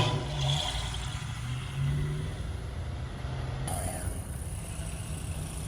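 Car engine revving hard and falling back, with a deep rumble that rises and drops. About two-thirds of the way through the sound changes abruptly to a steadier engine rumble.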